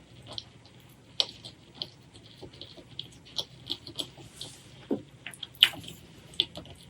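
Close-miked eating sounds: wet chewing and lip smacks as a run of short, irregular clicks, with one louder smack about five and a half seconds in.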